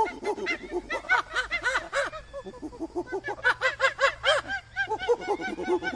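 A group of animals calling at once: many short, rapid, overlapping arched calls, chattering without a break.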